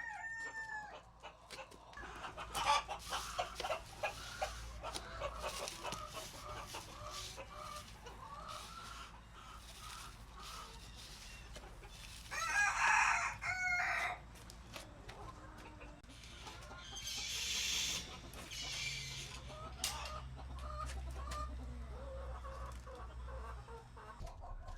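Chickens clucking throughout in many short calls, with one louder, drawn-out call from a rooster crowing about twelve seconds in. A brief rustling noise comes about five seconds later.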